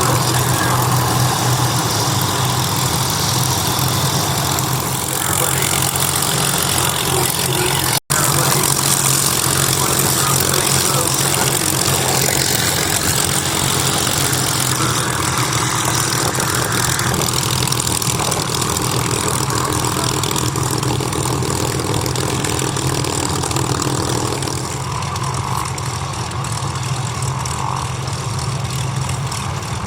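Piston aero engines of Spitfire and Hurricane fighters running steadily on the ground at idle, as they start up and taxi out. The sound cuts out for an instant about eight seconds in.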